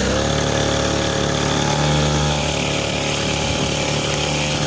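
Small motorbike engine running steadily at an even speed.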